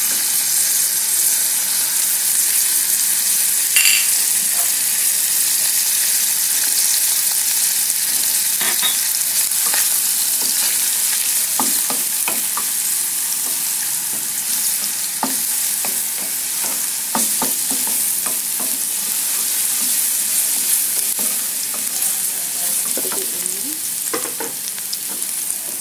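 Chopped garlic and ginger sizzling steadily in hot oil in a pan, sautéed until fragrant, with a wooden spatula now and then scraping and tapping the pan.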